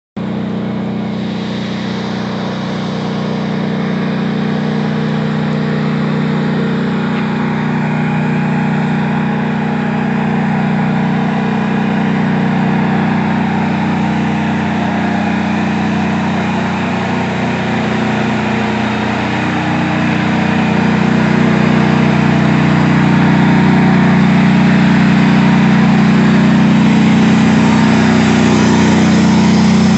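Engine of a knocked-out tank still running, a steady drone that grows somewhat louder about two-thirds of the way through.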